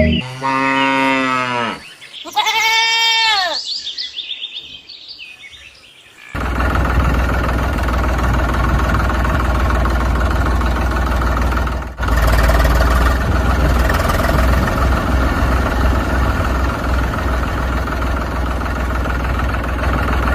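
Two drawn-out bleat-like farm-animal calls, each about a second and a half long, rising then falling in pitch. From about six seconds in, a steady engine rumble, as of a tractor running, which drops out briefly about twelve seconds in and resumes.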